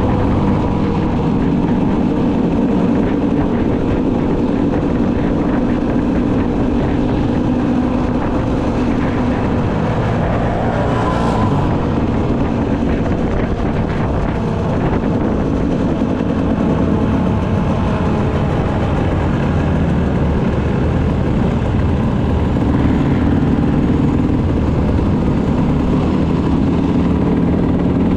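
Motocross motorcycle engines running and revving continuously, several at once, with one engine's pitch rising and falling about ten seconds in as a bike goes by.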